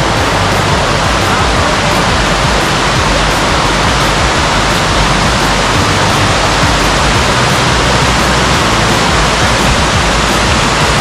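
Loud, steady rush of a waterfall's falling water, an unbroken even noise with no change.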